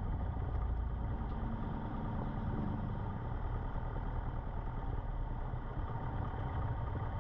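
Cessna 150's Continental O-200 four-cylinder engine running at low idle power, heard from inside the cockpit.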